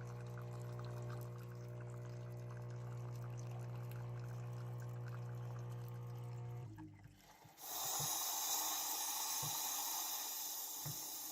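Bosch Tassimo coffee maker's pump humming steadily while coffee trickles into the cup. The hum stops about two-thirds of the way in, and a second later a loud, steady hiss of steam and air starts as the brew cycle ends.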